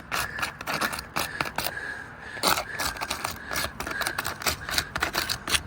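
Irregular scraping and sharp crackling clicks of asphalt roof shingles being handled and worked during a shingle repair.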